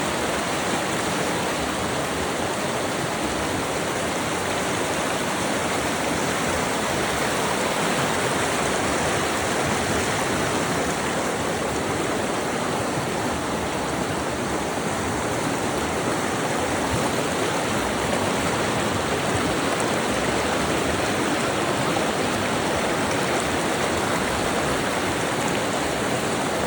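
Steady rushing water, an even, unbroken hiss with no change throughout.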